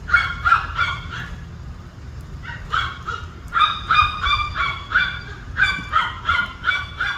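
Birds honking: a series of short, harsh honks at about three a second, in three runs with short pauses between them.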